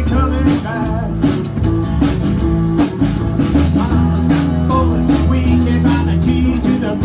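Live rock band playing an instrumental passage: guitar over bass and a drum kit keeping a steady beat.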